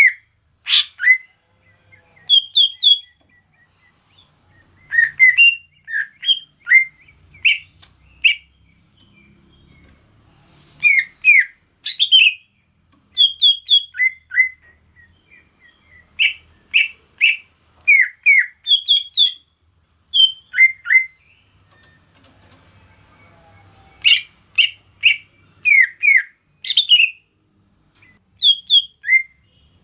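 Cucak ijo (green leafbird) singing: runs of short, sharp whistled notes, many sweeping downward, broken by pauses of a couple of seconds. A steady high-pitched hiss runs behind it.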